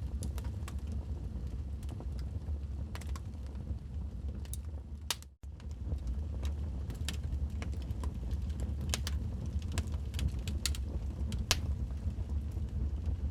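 Wood fire of burning logs crackling, with irregular sharp pops and snaps over a steady low rumble. The sound drops out for a split second about five seconds in.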